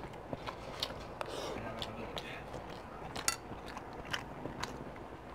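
Close-miked chewing of a mouthful of fried rice, with wet mouth clicks and smacks every half second or so, the sharpest a little past three seconds in.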